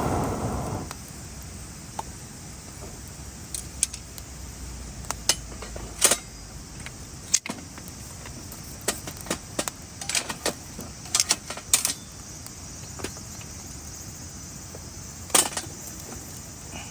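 Scattered light clinks and knocks of camp gear being handled, single strikes and short clusters at irregular intervals over a faint steady outdoor hiss.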